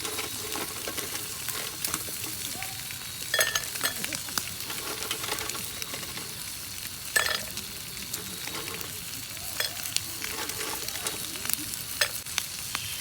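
Wood campfire crackling and hissing steadily, with a few sharp clicks and knocks scattered through it.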